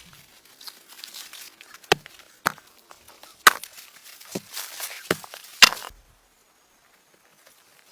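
Wood being chopped: about six sharp, uneven strikes with rustling between them.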